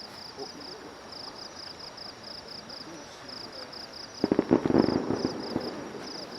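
Fireworks crackling in a rapid flurry of sharp pops lasting about a second and a half, starting about four seconds in. Insects chirp steadily throughout in short, evenly spaced pulsed trains.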